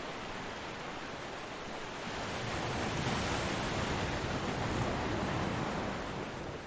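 Ocean waves breaking on a beach: a steady wash of surf that swells as a wave crashes about two seconds in, holds for a few seconds, then subsides near the end.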